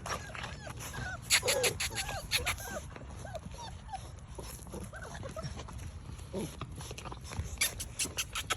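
Young pit bull puppies whimpering and yipping in many short rising-and-falling whines, with clusters of sharp scratchy clicks about a second in and again near the end.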